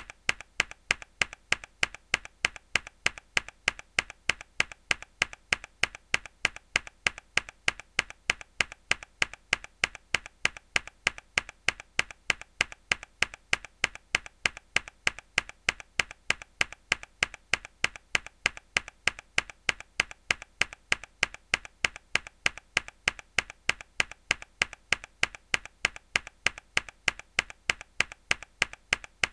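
A single hard key press on a mechanical keyboard, looped: sharp clicky keystrokes repeating in a steady, even rhythm of a few per second.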